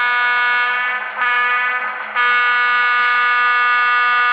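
Horn of a sound-equipped HO scale model locomotive, played through its DCC sound decoder's speaker: a long blast, a short one, then a final long blast, the end of a long-long-short-long grade crossing signal.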